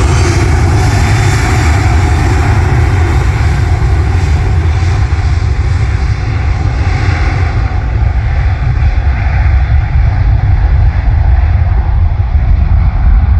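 Aircraft engines running loud as a plane passes, with a heavy low rumble; the higher part of the sound falls away from about two-thirds of the way in as the aircraft moves off.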